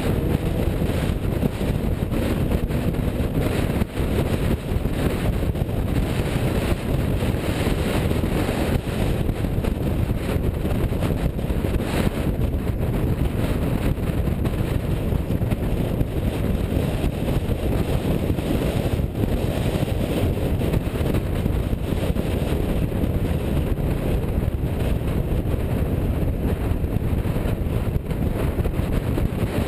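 Steady rumble of a car on the move, with wind buffeting the microphone.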